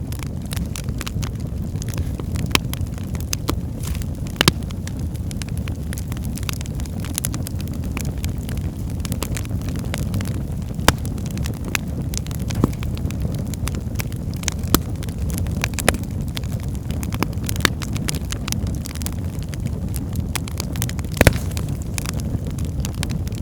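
Wood fire burning in a fireplace: a steady low rumble of the flames with frequent irregular crackles and pops, a few sharper pops standing out, the loudest about 21 seconds in.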